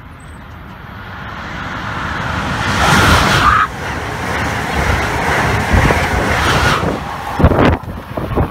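Amtrak Acela Express high-speed electric trainset passing through the station at speed. A rush of wheel and air noise swells as it approaches and is loudest as the front power car goes by about three seconds in. The sound holds through the passing coaches and falls away about seven seconds in, followed by a few sharp bursts of buffeting near the end.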